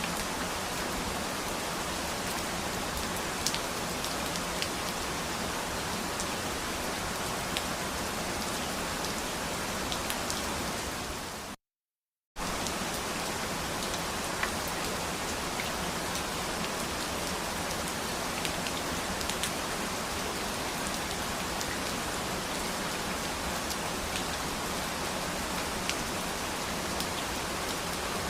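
Steady rain falling, with scattered individual drop ticks. About twelve seconds in, it fades slightly and then cuts to total silence for under a second before starting again abruptly, a splice in the looped recording.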